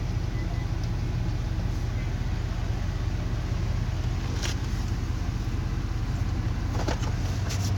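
A car engine idling steadily, heard from inside the cabin, as a low even hum. There are a couple of faint ticks partway through.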